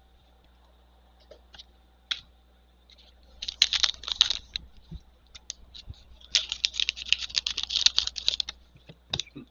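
Trading cards and their plastic packaging being handled: two spells of rapid crinkling and clicking, the first about three and a half seconds in and the longer one from about six to eight and a half seconds, with a few single clicks between.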